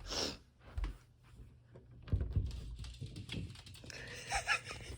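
Rustling and soft knocks and thumps as a person gets up and moves about, with a brief high squeak or whine near the end.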